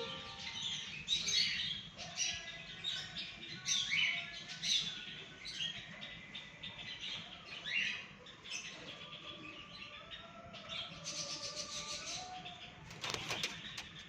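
Alexandrine parakeet chattering in many short, sharp chirps, thick for the first eight seconds or so, then sparser and fainter. A brief rustle sounds about thirteen seconds in.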